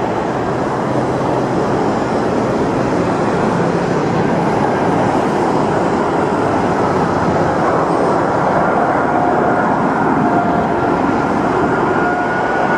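Airbus A380's four Rolls-Royce Trent 900 jet engines on landing approach: a steady rushing engine noise with a faint whine that grows clearer in the second half.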